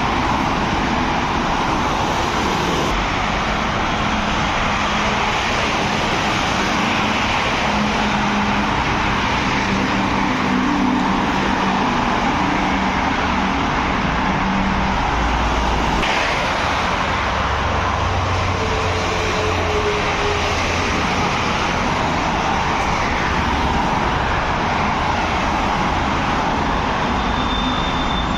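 Steady road traffic noise, with the low engine hum of heavy vehicles passing.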